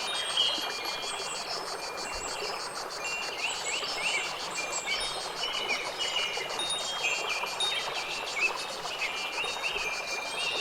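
Wind chimes ringing softly in a steady nature ambience, with birds chirping and a fast, even high trill like insects.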